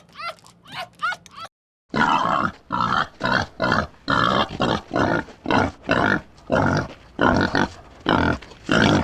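Short, high yelping calls, each falling in pitch, about three a second. After a sudden break, an animal gives loud, harsh, rhythmic grunts, roughly two a second.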